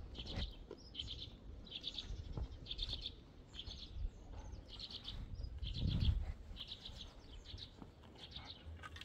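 A small bird calling over and over in short, fast-trilled chirps, about one a second. A few low thuds come from concrete block work, the loudest about six seconds in.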